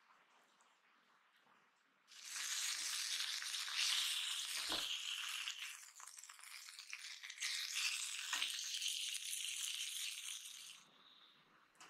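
Marinated chicken breast sizzling in hot oil on a grill pan, a dense crackling hiss that starts about two seconds in and cuts off suddenly near the end. Two dull knocks come during the sizzle.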